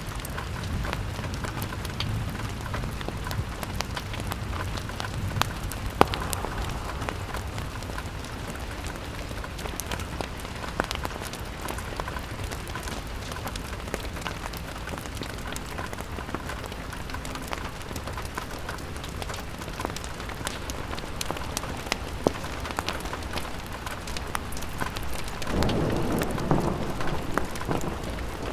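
Rain falling on a window, a steady patter with many sharp drop ticks over a low rumble. The low rumble swells louder about 25 seconds in.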